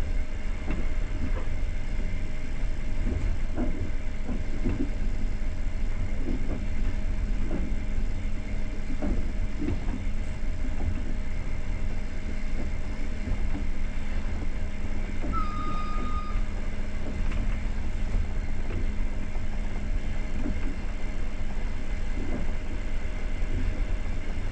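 Passenger train running along the line, a steady low rumble of wheels on rails heard from inside the carriage, with scattered light knocks. A brief high tone sounds about two-thirds of the way through.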